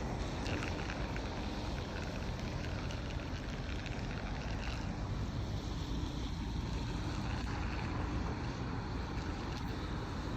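A machine running steadily: an even, noisy drone with a low hum that does not change.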